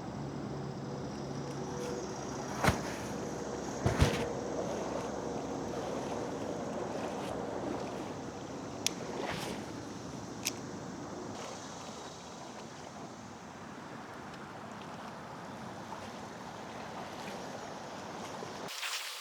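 Steady wind and water noise around a fishing kayak on the river, with a few sharp knocks, the loudest about three and four seconds in.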